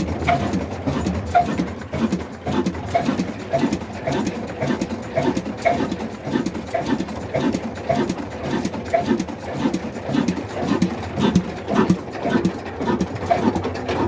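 Old black single-cylinder desi diesel engine running at a slow, steady pace, its exhaust and combustion beats thudding in a regular rhythm.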